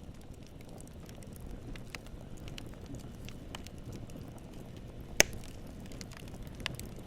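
Campfire burning with a steady low rumble and scattered crackles as the wood pops, one sharp loud pop about five seconds in.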